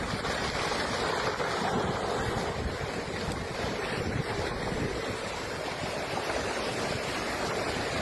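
Steady rush of wind buffeting the microphone over the wash of waves.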